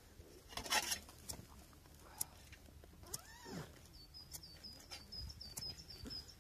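A bird's rapid string of short high chirps, twice, with a few sharp clicks and a brief rustling burst about a second in. A single rising-and-falling call is heard around the middle.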